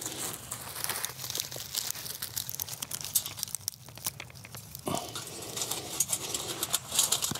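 Small wood fire crackling in a hobo stove as the kindling catches, with dense, irregular snaps and pops.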